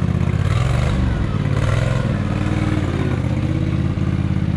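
Modified off-road lawn tractor's engine running hard under load, its pitch dropping about a second in and climbing again around three seconds.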